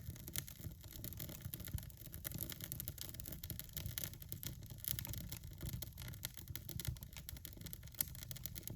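Birch-bark kindling in a fireplace, giving a dense run of faint, irregular crackles and rustles as the fire is being lit.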